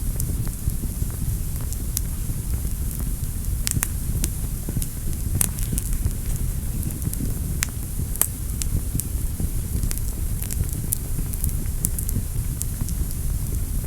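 Wood fire burning in a fireplace: a steady low rumble of the flames with scattered crackles and sharp pops, a few louder pops through the middle.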